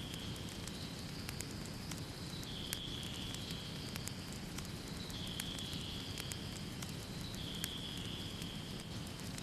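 Wood fire crackling in a fireplace: frequent sharp pops and snaps over a steady low rumble of burning. A faint high whistling tone sits underneath, shifting slightly in pitch every couple of seconds.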